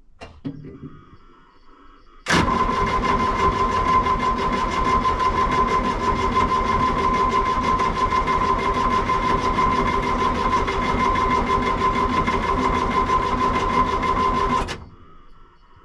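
Diesel excavator engine cranking on its starter for about twelve seconds without firing, then stopping abruptly: a steady whine with fast, even pulses that never picks up. It is a no-start, which the owner puts down to air in the fuel system, the system having lost prime.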